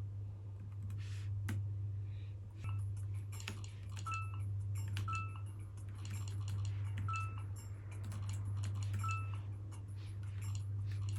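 Short electronic beeps, each the same pitch, repeating about every one to two seconds, among light clicking and tapping over a steady low hum.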